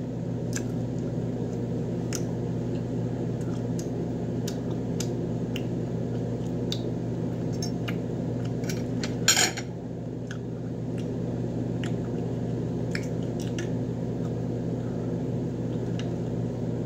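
Chewing crispy fried chicken close to the microphone: scattered crunching clicks and wet mouth sounds, with one louder noise about nine seconds in, over a steady low hum.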